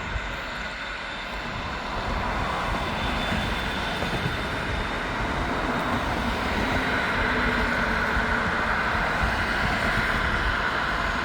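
Etihad jet airliner's engines running, a steady rushing noise with a faint whine, growing louder about two seconds in as the plane goes for take-off.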